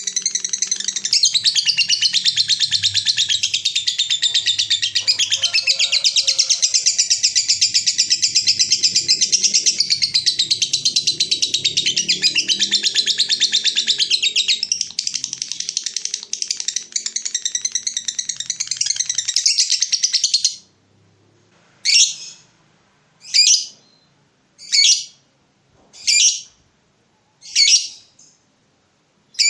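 A songbird singing a long, fast, unbroken twittering song, high in pitch. It stops abruptly about two-thirds of the way in, and is followed by single short, falling calls about one and a half seconds apart.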